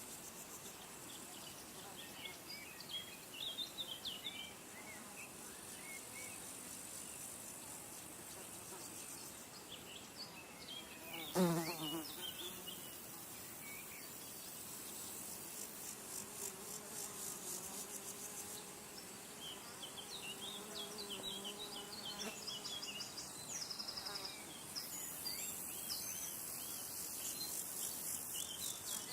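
Outdoor insect ambience: a high, pulsing insect trill, and flying insects buzzing close to the microphone, the loudest buzz about eleven seconds in and a steady hum a few seconds later. Small birds chirp now and then.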